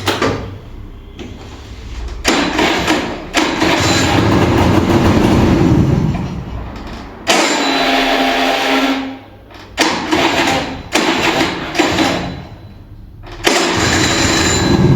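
Kinetic Honda two-stroke scooter's electric starter cranking the engine in about six separate attempts, one of them held for about four seconds, with short pauses between. The engine does not catch: a hard cold start.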